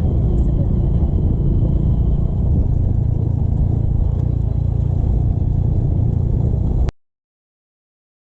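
Motorcycle riding along the road: a steady engine and road rumble with wind noise on the microphone. It cuts off abruptly to silence about seven seconds in.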